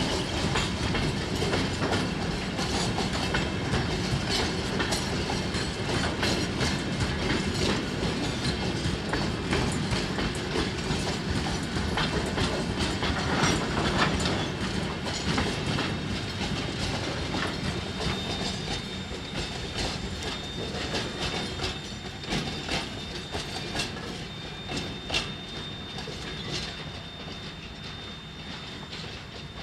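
Freight train wagons rolling past, their wheels clicking and clanking over the rail joints; the sound slowly fades over the last ten seconds or so.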